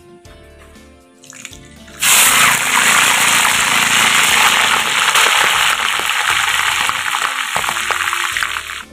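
Snail meat sizzling in hot oil in a wok: a loud, even sizzle starts suddenly about two seconds in, as the food meets the hot oil, and stops just before the end. Background music plays under the first two seconds.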